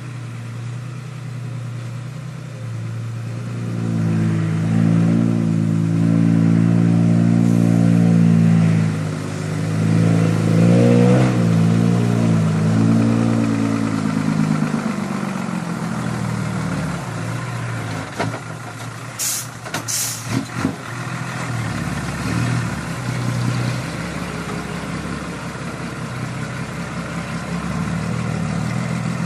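Dump truck engine pulling hard, its pitch climbing and the sound swelling a few seconds in, then easing back to a lower, steadier run about halfway through. Two short sharp hisses come soon after it eases off.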